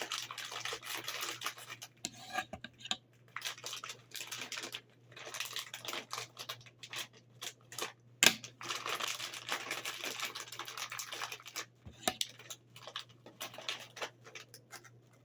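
Crinkly plastic snack bag being handled, with chips rustling and clicking inside, in irregular bursts with short pauses and one sharp click about eight seconds in.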